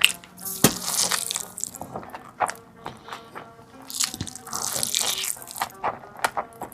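Close-miked wet eating sounds: a person chewing and slurping big mouthfuls, with irregular smacks and clicks, over soft background music.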